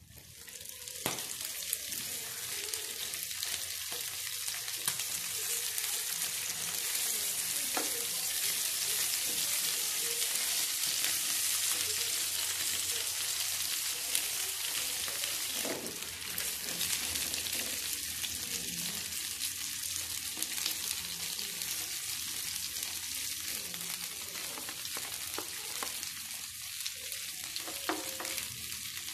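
Chicken pieces sizzling in hot oil in a nonstick grill pan: a steady frying hiss, with a few sharp clicks of a cooking utensil against the pan.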